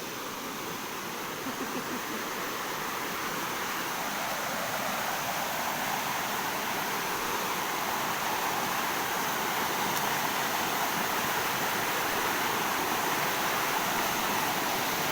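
Steady rush of a fast, rain-swollen river, slowly growing louder.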